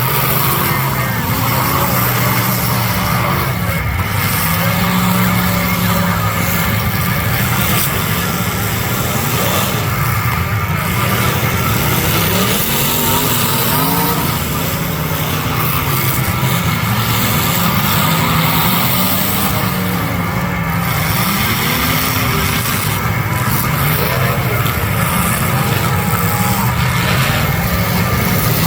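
Several demolition derby cars' engines running loudly, revving up and down without a break.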